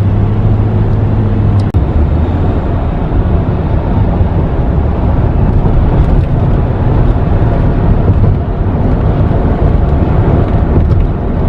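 Loud, steady road noise of a moving car: tyres and engine running at speed, with a low hum, heard from inside the car.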